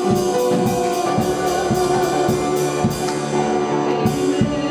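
Worship band playing between sung lines: a drum kit with cymbal strokes about four a second, thinning out after about three seconds, over held chords.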